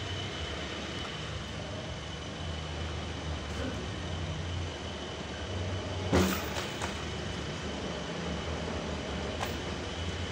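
Band sawmill running steadily, with a low hum and a thin high whine; a sharp knock sounds once about six seconds in.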